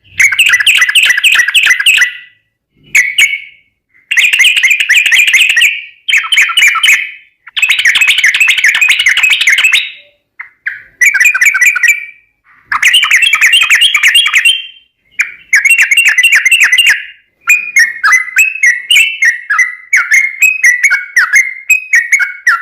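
Yellow-vented bulbul (trucukan) singing loud, bubbling chattering phrases of one to two seconds with short pauses between them. Near the end the song turns into a quicker string of short notes.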